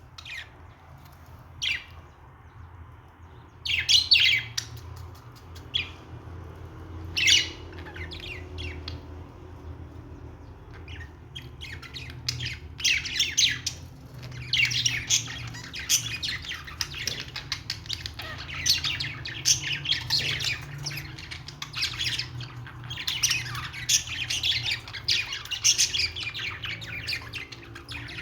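Budgerigars chirping and squawking: a few separate sharp squawks in the first seven or eight seconds, then near-constant high chattering from about halfway through, over a faint steady low hum.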